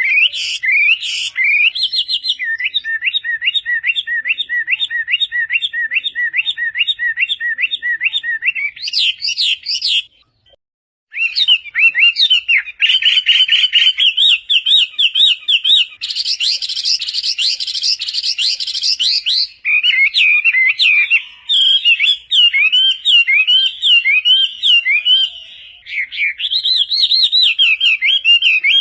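Chinese hwamei singing a loud, varied song. It holds a long run of one slurred whistle repeated over and over, a brief pause about ten seconds in, then changing phrases of rising and falling whistles.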